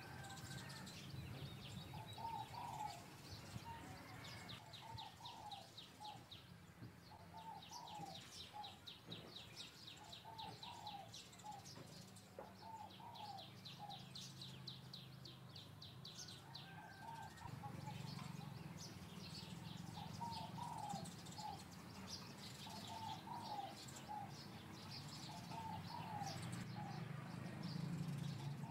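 Birds calling: a short phrase of a few notes repeated about every two seconds, with a rapid high chattering trill over it through the first half, all faint over a steady low hum.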